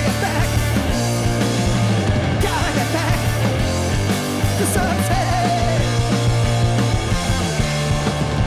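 A rock band playing live, loud and distorted in a punk or grunge style, with a steady bass line and a voice singing over it.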